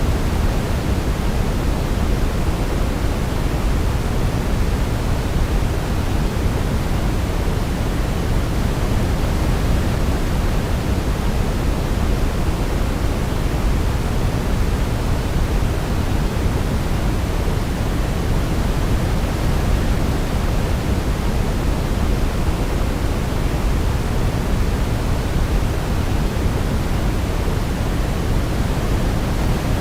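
Steady sleep-aid white noise: an unchanging hiss weighted toward the low end, with no melody heard over it.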